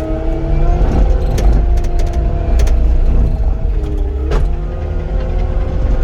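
Cat 259D compact track loader's diesel engine running hard with a deep rumble and a whine that shifts in pitch, sagging briefly about four seconds in and then steadying. A few sharp clicks and clanks sound over it.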